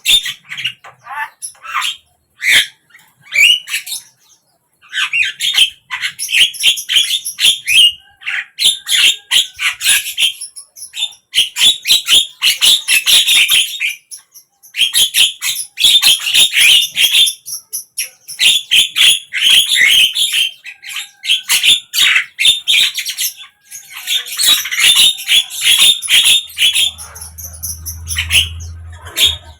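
Javan myna calling: rapid chattering runs of falling notes in bursts of two to three seconds, with short pauses between.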